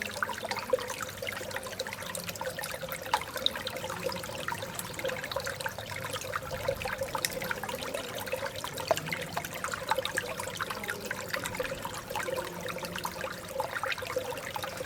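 Artificial stream babbling steadily: water trickling and splashing over a small drop, with many small splashes and a steady low burble.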